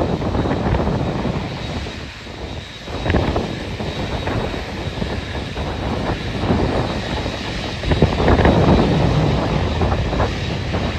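Airliner jet engines running at the airport, with heavy wind buffeting the microphone; the sound swells about eight seconds in.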